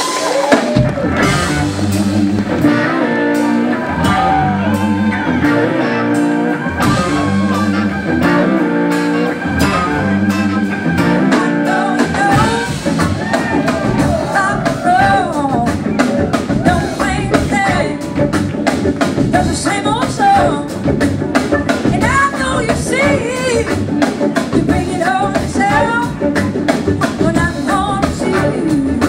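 Live blues-rock band playing, with drum kit, bass, electric guitar and a singing voice. A repeating bass figure carries the first part, and the drumming becomes busier about halfway through.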